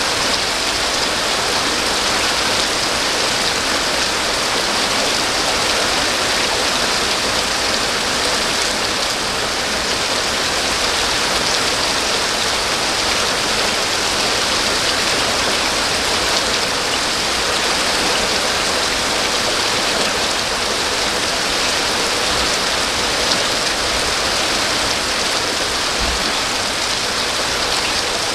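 Steady heavy rain falling and pattering on surfaces, a dense even hiss with no breaks.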